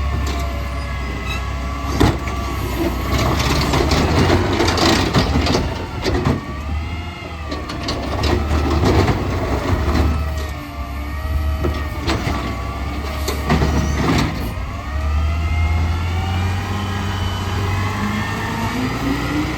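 Garbage truck engine running and revving up and down, with several sharp bangs and clanks, and a rise in pitch near the end.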